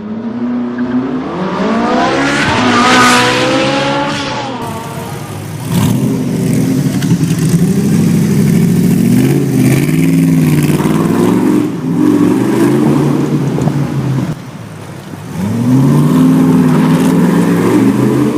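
Shelby Cobra 427's big-block V8 accelerating hard, its pitch climbing and dropping back several times as it pulls through the gears, with a short lull about fourteen seconds in.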